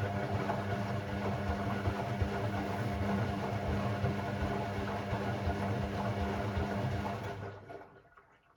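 Hoover Sportswear 1300 washing machine running, a steady hum over a rushing, watery noise, which winds down and stops after about seven and a half seconds.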